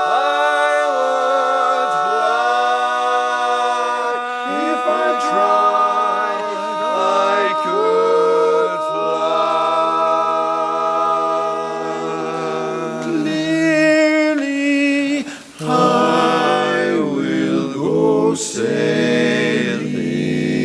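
Barbershop quartet singing a cappella in close four-part harmony, holding long sustained chords that shift from one to the next, with a brief break about fifteen seconds in.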